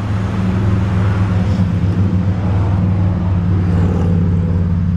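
The 2001 Mercury Cougar's 2.5-litre DOHC 24-valve V6 idling steadily, with its exhaust note heard from the rear of the car.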